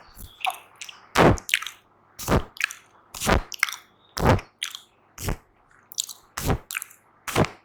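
Cheek popping made close to the microphone: a run of sharp, wet mouth pops, the loudest coming about once a second with smaller clicks and smacks between them.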